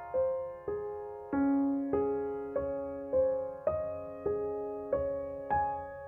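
Background music: a slow, gentle keyboard melody of single notes struck about every 0.6 seconds, each ringing and fading into the next.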